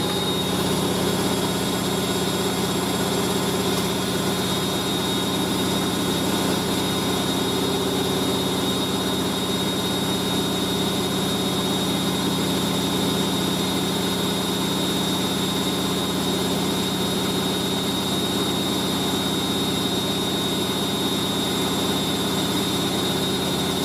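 Hoover A3060 Electronic 1100 washing machine spinning a towel load at high speed on its final spin, running steadily with a constant hum and a thin high whine. The load is spinning stably, with a slight back-and-forth vibration.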